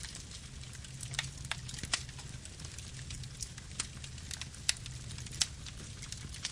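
Wood fire burning: a steady low rumble of flames with irregular sharp crackles and pops of burning wood, two of them louder near the end.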